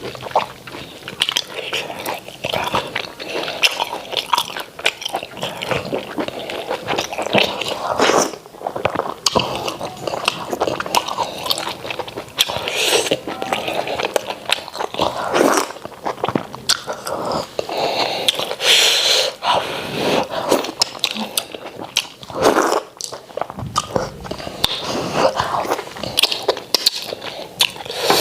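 Close-miked sounds of a person eating sticky Nigerian starch with white soup: wet, irregular chewing and messy lip smacking that runs on without pause.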